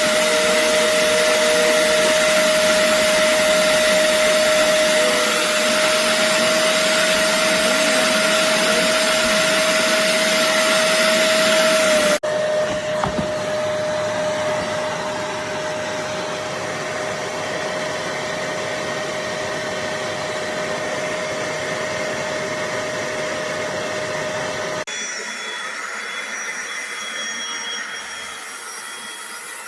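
BISSELL Little Green portable carpet and upholstery cleaner running, a steady motor whine over suction noise. About twelve seconds in it cuts abruptly to a quieter run, and near the end the whine stops, leaving a fainter hiss.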